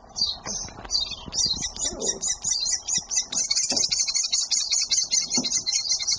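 Chimney swifts chittering: a rapid, continuous train of short high chirps, about eight a second, from birds in care.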